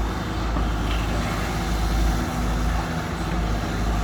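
Heavy diesel engine running steadily with a deep, even rumble, from the excavator or dump trucks working the pond dig.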